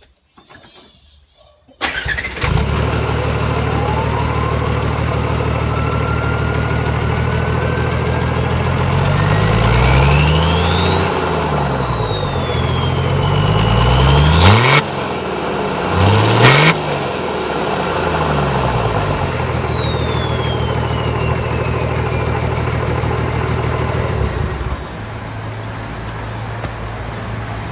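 Nissan Patrol 3.3 turbodiesel engine starting about two seconds in, then running with two quick revs around the middle. A turbo whistle climbs as the engine runs, then fades away after the revs, and the engine settles to a quieter idle near the end.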